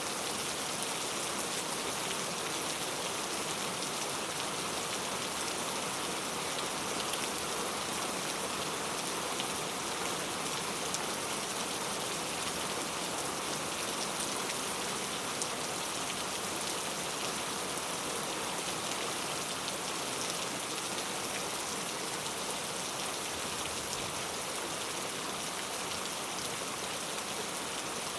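Heavy rain falling steadily, a dense even hiss of drops striking hard surfaces, with fine patter throughout.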